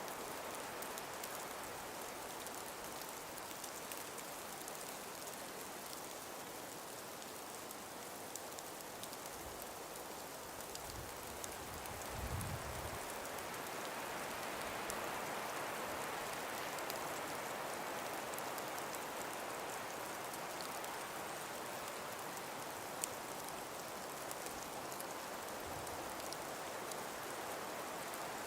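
Calm breeze through frosted forest trees: a steady, even hiss that swells a little partway through, with a brief low rumble of wind on the microphone about twelve seconds in.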